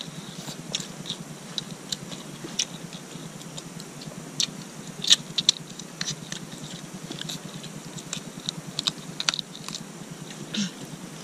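Close-up wet chewing and lip-smacking of people eating chicken and rice by hand: many small irregular clicks, with a few louder ones about five seconds in, over a low steady background noise.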